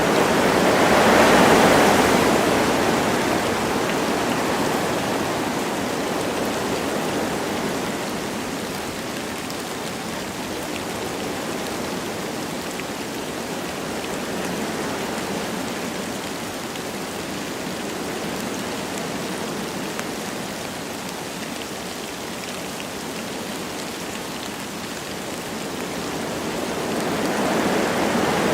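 Wind blowing through forest trees with light rain falling, a steady rushing noise. It swells in a gust about a second in, eases off through the middle, and builds again near the end.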